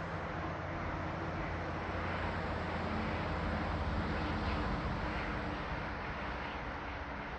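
Steady rushing noise of riding a bicycle: wind on the microphone and rolling noise, with a constant low rumble.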